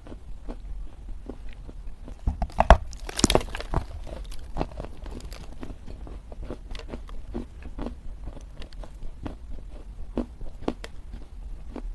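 Dry Chinese loess clay being crunched: a dense run of crisp crackling crunches a couple of seconds in, the loudest part, then scattered smaller crunches and crumbles.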